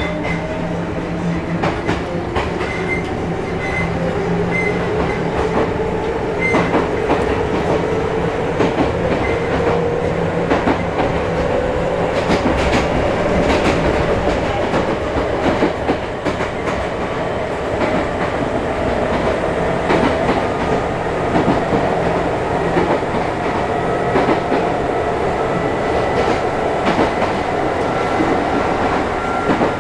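Onboard running sound of a Chichibu Railway 5000 series resistance-controlled electric train: the traction motors' whine climbs slowly in pitch as the train gathers speed, with repeated clicks of the wheels over rail joints.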